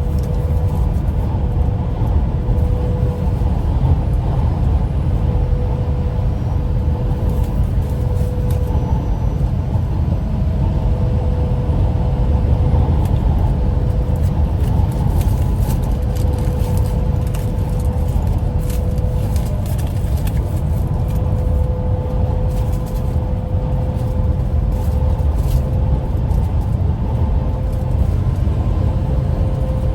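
Steady low rumble of a running vehicle heard from inside its cab, with a faint steady whine over it.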